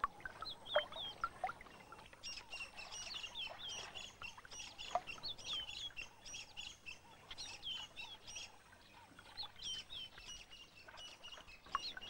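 Birds chirping: a quick run of short, high calls, each dropping in pitch, repeated over and over with a few brief gaps.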